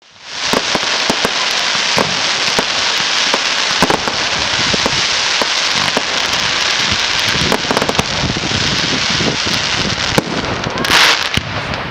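Firework display: a dense, continuous crackling studded with many sharp pops, with a louder burst about eleven seconds in.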